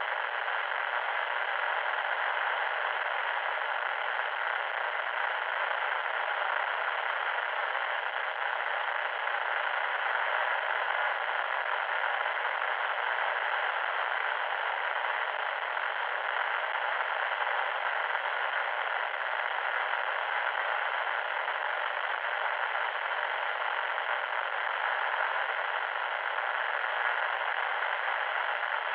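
Loud, steady static noise: an even hiss with no tone or rhythm, held to the middle pitches with no low rumble and little top end, unchanging throughout.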